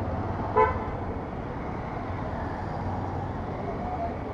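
Steady road traffic noise with an engine hum, and one short vehicle horn toot about half a second in, the loudest sound here.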